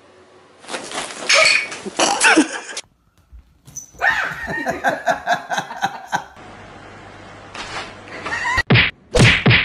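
A cat crying out with wavering, pitched cries at another cat. After a short break comes more crying out that includes a person's shout of 'Ah!', and then several sharp bursts of noise near the end.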